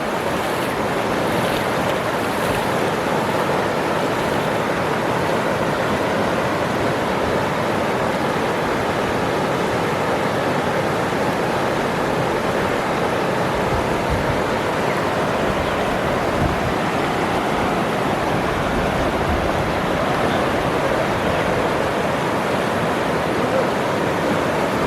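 Waterfall rushing, a steady even roar of falling water with no change in level.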